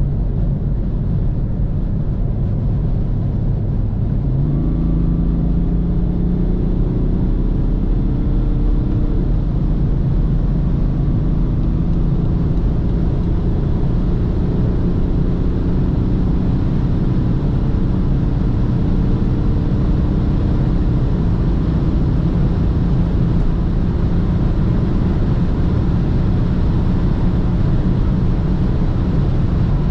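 BMW 330d's three-litre straight-six diesel under way at speed, its note climbing slowly in pitch as it pulls, over a steady rumble of road and wind noise.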